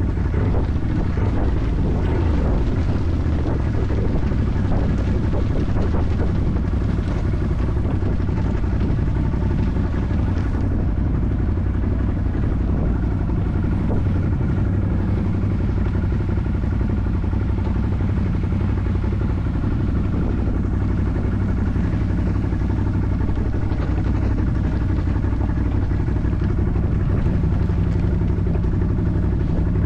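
An ATV's engine running steadily at a fairly even pitch.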